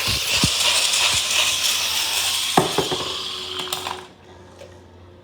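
Beyblade spinning tops whirring and rattling against each other in a plastic stadium during a battle, with sharp clashes about two and a half and three and a half seconds in. At about four seconds the spinning noise dies away.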